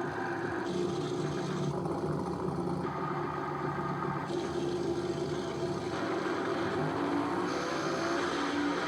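Drag race car engines running and revving, the sound shifting abruptly every second or so.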